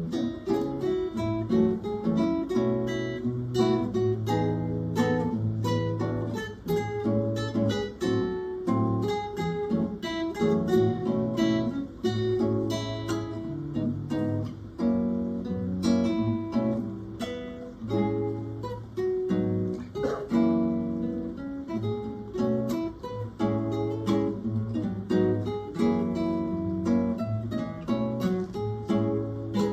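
Acoustic guitar trio playing a tune, with strummed chords and plucked melody notes.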